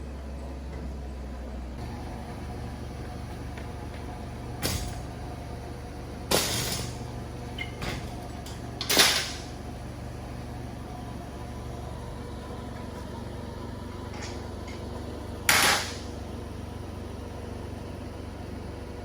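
Crop-duster aircraft engine running at idle, driving the air-conditioning compressor, as a steady low drone. A few short, loud knocks or rushes cut across it: about a third of the way in, twice more in the middle, and once near the end.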